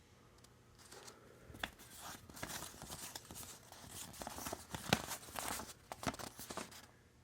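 Paper rustling and crinkling as an installation manual is handled, with scattered light clicks and taps, starting about a second in and stopping near the end.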